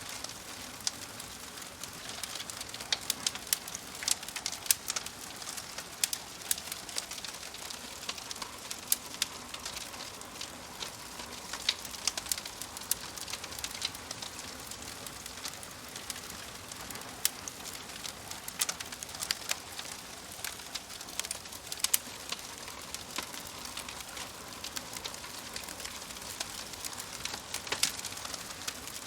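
Wood fire crackling in a wood-burning stove: frequent sharp pops and snaps over a steady soft hiss.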